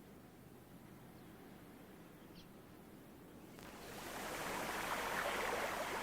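Faint ambience with one brief high chirp, then, a little over halfway through, an abrupt change to a stream of water rushing, much louder. The stream is a wet-season one gushing down a scarp slope.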